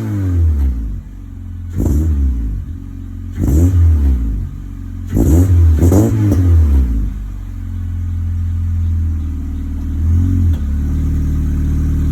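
Honda Civic FB 2.0 four-cylinder with an aftermarket header and Mugen titanium exhaust, revved in three short blips, the last a double rev, each rising and falling back. It then settles to a steady idle with one small blip near the end.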